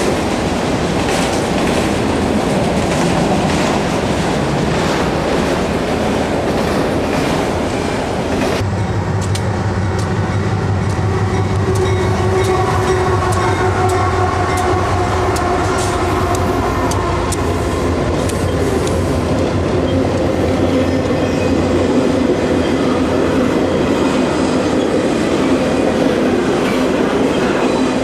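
Freight train cars rolling past with a steady rumble and wheels clicking over rail joints. About eight seconds in the sound changes to a CSX diesel locomotive passing, with a steady low engine drone and held tones over the rolling noise. Loaded intermodal cars follow, still clacking.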